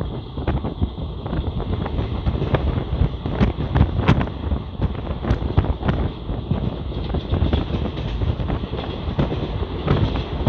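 Moving passenger train running at speed, a steady rumble with scattered sharp clicks and knocks from the wheels and running gear. Heavy wind buffets the microphone.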